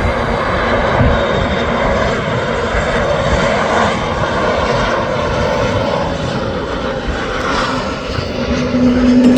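Airliner's engines on landing approach, a loud steady roar with a low rumble. A short steady hum joins near the end.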